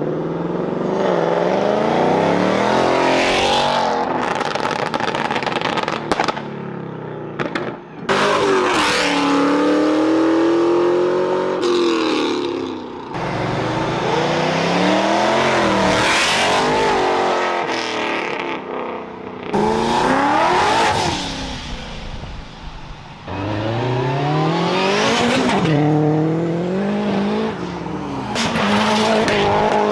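A string of performance cars launching hard one after another, engines revving up and dropping back through gear changes, with tyre squeal at times.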